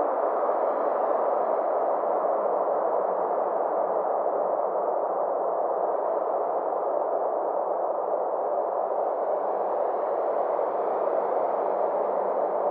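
Steady synthesized space-ambience drone: a dense, hissing band of sound centred in the middle range, its brightness slowly swelling and fading over several seconds.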